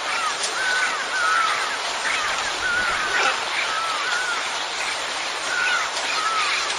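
Nature soundscape: short, repeated arching animal calls, about two a second, over a steady rushing noise.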